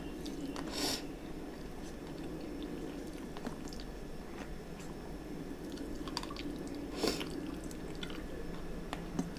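A man chewing with his mouth closed while his fingers squish and mix wet rice and dal on a steel plate, with a few short clicks, the clearest about a second in and about seven seconds in.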